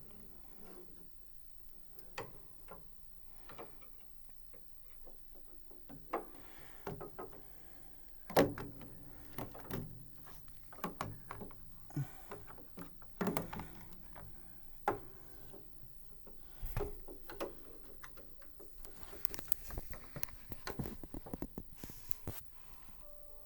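Irregular clicks and knocks of a screwdriver and small parts being handled while the action of a spinet piano is unscrewed, the loudest knock about eight seconds in.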